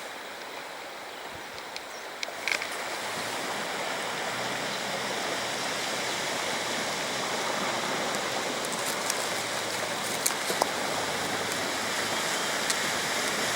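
Rushing water of a mountain river, a steady rush that grows slightly louder over the first few seconds. A faint low steady hum runs underneath from about four seconds in.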